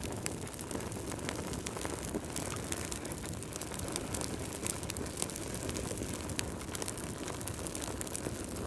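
Fireplace fire crackling: a steady low rush of flame with frequent small pops and snaps.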